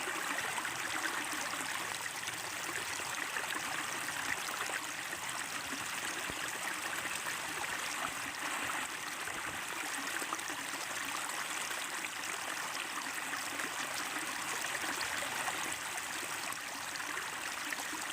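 Steady running water of a stream, babbling evenly without a break.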